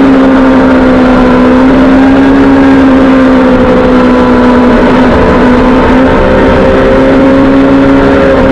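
Suzuki GSX-R sportbike's inline-four engine running hard at fairly steady revs while riding, with wind rush underneath.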